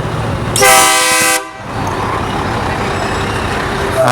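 Truck air horn giving a loud, steady-pitched blast of about a second, with a second blast starting at the very end, over the rumble of truck engines.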